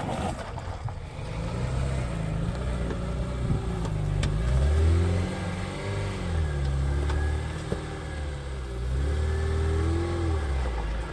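A car engine revving up and falling back several times, with a few light knocks.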